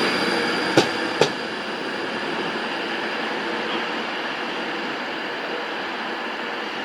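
A train running through the station: two sharp clacks about a second in, then a steady rumbling hiss of the moving train.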